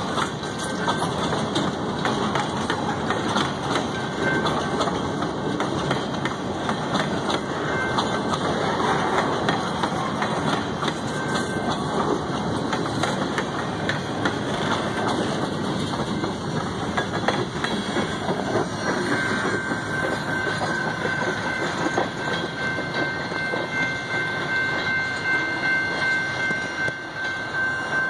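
Freight cars rolling past at a grade crossing: a steady rumble of steel wheels on rail with the clickety-clack of wheels over the rail joints. A thin, steady high-pitched tone joins in about two-thirds of the way through.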